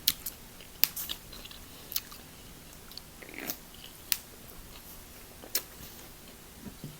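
A person eating close to the microphone: chewing with wet mouth clicks and smacks, a sharp one every second or two at irregular intervals.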